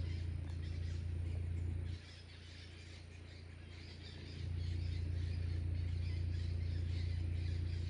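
Birds chirping faintly over a steady low rumble; the rumble cuts out about two seconds in and comes back just past the middle.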